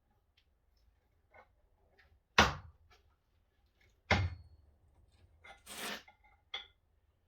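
Two sharp, loud knocks about two seconds apart, each ringing briefly, followed by a short scraping rustle and a small click, as parts of an old power hacksaw are handled during dismantling.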